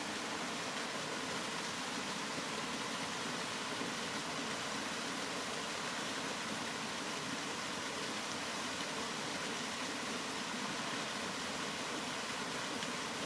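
Steady rain: an even, unbroken hiss with no single drops, thunder or changes standing out.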